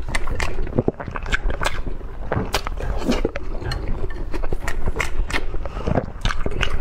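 Close-miked chewing of peeled hard-boiled egg: wet mouth sounds broken by many irregular sharp smacking clicks.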